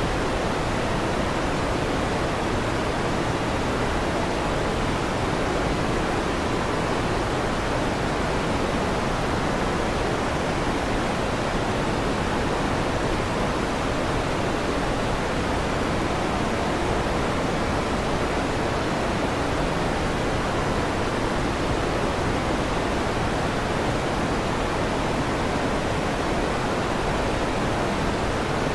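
Electric fan running: a steady, even rushing noise, fullest in the low-middle range, with no rumbles or sudden sounds.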